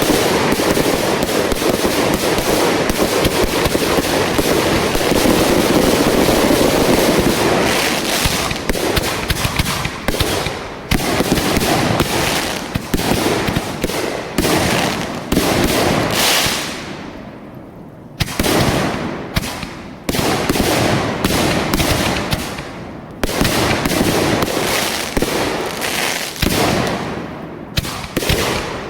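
Fireworks going off in rapid volleys of bangs and crackling, densest in the first several seconds, then in separate bursts with short pauses between them.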